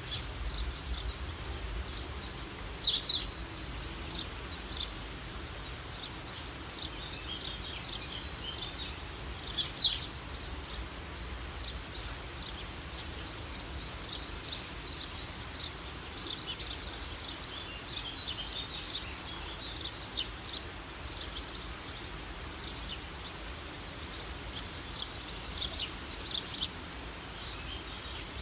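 Birds chirping, many short chirps throughout with a louder call about 3 seconds in and another about 10 seconds in, over a steady background hiss.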